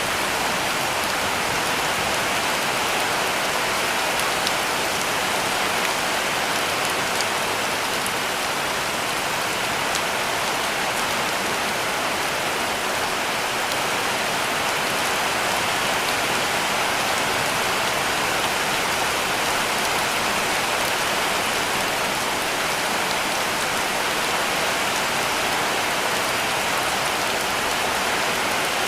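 Heavy rain falling steadily on a cabin roof: an even hiss with scattered ticks of individual drops.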